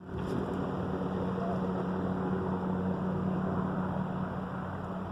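Large helicopter in flight, a steady low drone with a deep, unchanging hum.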